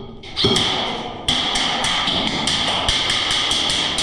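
Airsoft gunfire: a single loud shot, then from about a second in a steady rapid string of shots, about five a second, that stops just after the end.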